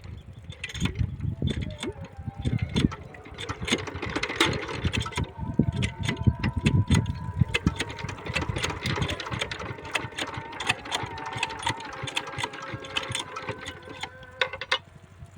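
Single-cylinder 5 hp diesel water-pump engine being hand-cranked. It knocks and clatters irregularly as it tries to fire, without settling into a steady run.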